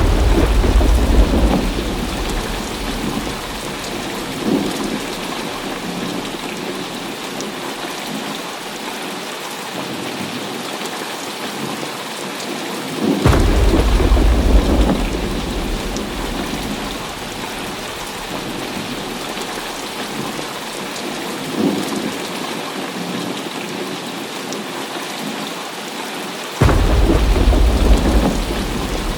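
Heavy rain falling steadily, with three rolls of thunder, one at the start, one about 13 seconds in and one near the end, each breaking suddenly as a deep rumble and fading over a few seconds.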